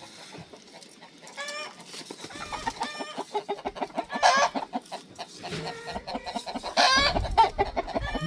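Chickens clucking in a run of short repeated calls, a few of them louder, with a low rumble joining about seven seconds in.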